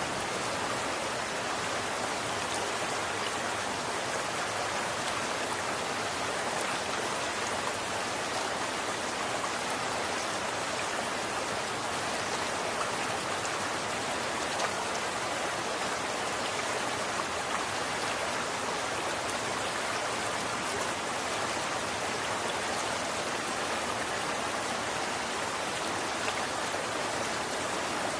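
Running water: a steady, even rush with a few faint ticks of droplets.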